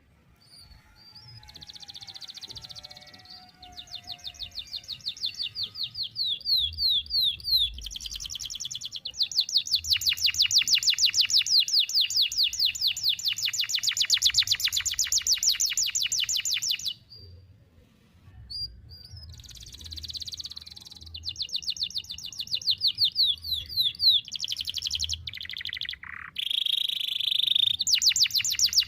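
Domestic canary singing long, rapid trills of high repeated notes. One unbroken trill lasts about seven seconds, then after a short pause the song resumes with further trills.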